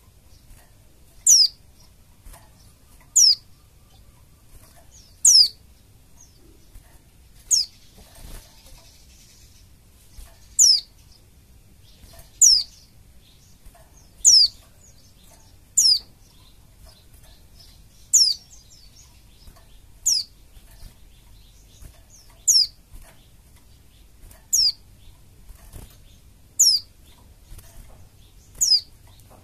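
White-eye (pleci) calling: about fourteen single sharp chirps, each falling steeply in pitch, repeated roughly every two seconds. It is played as a lure call to get other white-eyes to open up and sing.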